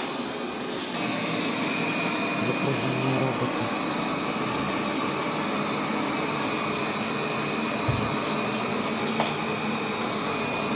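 Robot vacuum cleaner running: a steady whir with a thin high whine that sets in about a second in, and one low thump about eight seconds in.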